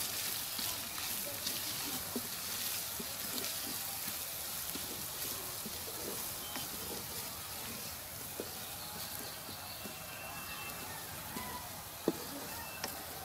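Spice masala sizzling and crackling in hot oil in a steel kadai while a wooden spatula stirs and scrapes through it. The sizzle is strongest at the start and eases a little later on, and a single sharp knock of the spatula on the pan comes near the end.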